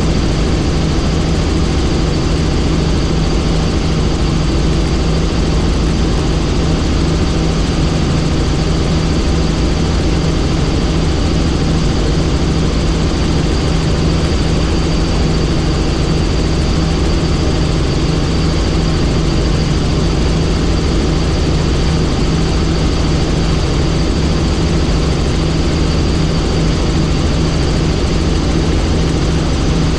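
Helicopter in steady flight: the rotor and engine make a constant loud drone, with a flickering low hum and a thin steady whine above it.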